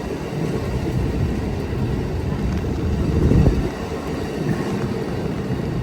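Amtrak Coast Starlight passenger train departing the station: a steady low rumble as the train rolls out, swelling briefly about three seconds in.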